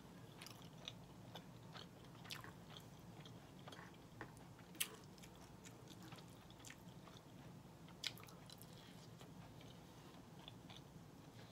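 Quiet chewing of a mouthful of red beans and rice, with scattered small mouth clicks and a few sharper clicks from the fork working the plate, over a faint low hum.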